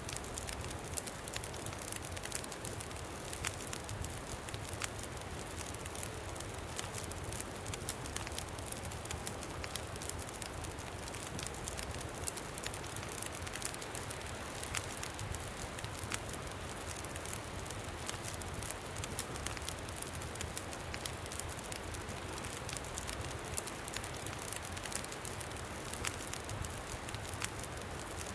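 Campfire crackling, with many small sharp pops scattered throughout, over a steady low rumble of wind.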